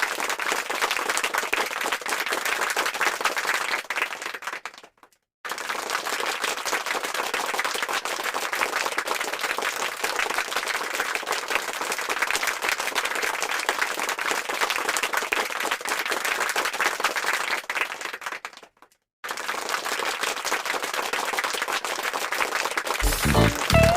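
Crowd applauding, a dense, steady clapping. It fades out and breaks off briefly about five seconds in and again about nineteen seconds in, then starts up again.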